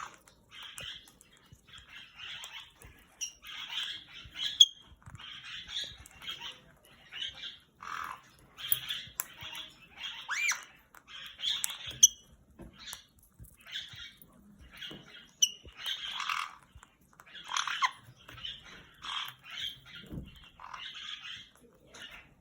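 Caique parrots squawking and chattering in a run of short, harsh calls, about one every second, with a few brief whistles and sharp clicks between them.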